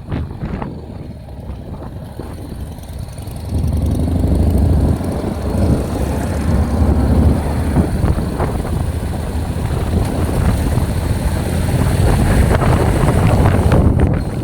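Motorcycle riding: engine rumble mixed with wind buffeting the microphone, getting markedly louder about three and a half seconds in as the bike picks up speed.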